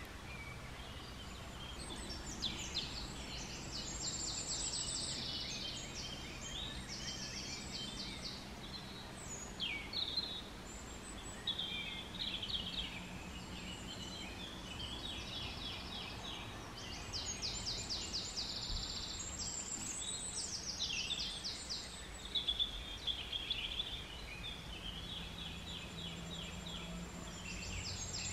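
Songbirds singing in woodland: a string of short, fast trilled phrases, one after another and sometimes overlapping, over a quiet steady background.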